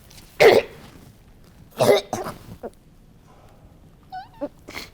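A person coughing twice, loud and short, about half a second and two seconds in, followed near the end by a brief, thin, high vocal sound that glides in pitch.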